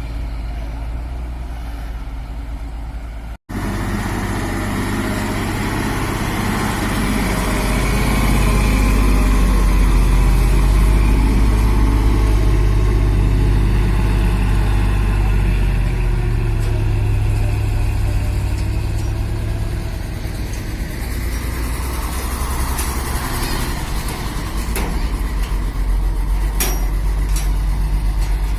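Heavy cargo truck's diesel engine running at low speed, with a steady low drone. It grows louder toward the middle and eases off again, with a few sharp clicks near the end.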